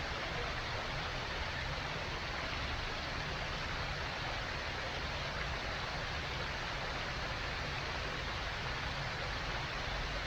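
Steady, even background rushing noise with no other events in it.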